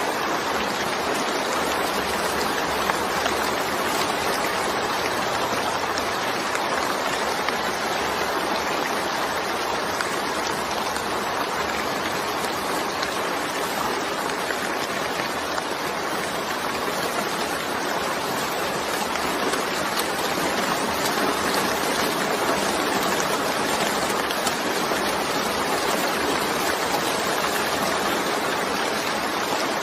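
Steady rainfall, an even hiss with no breaks or thunder.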